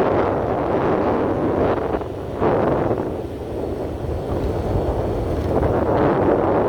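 Wind buffeting the microphone: a loud rushing noise that rises and falls in gusts.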